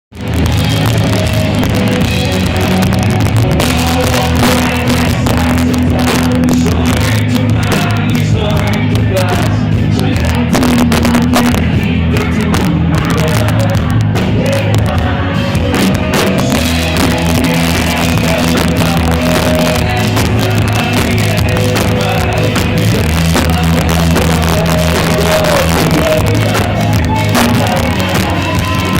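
Live rock music from a band, with singing over the instruments.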